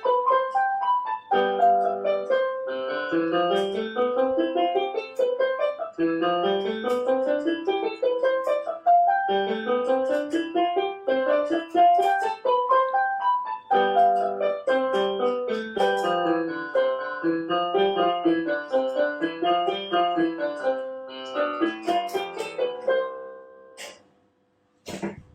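Solo piano playing quick rising and falling runs of notes, ending with a held chord near the end, followed by a couple of faint clicks.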